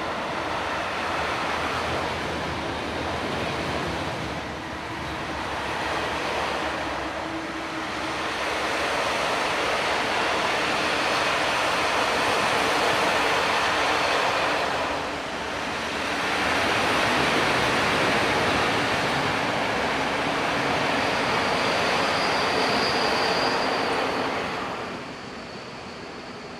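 A train passing close by on the main line, with loud, steady wheel-and-rail running noise. It dips briefly a few times and falls away sharply near the end as the train clears.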